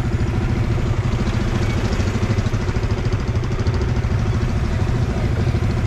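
Motorcycle engine running at low speed with a steady, rapid throb, heard from on the bike itself.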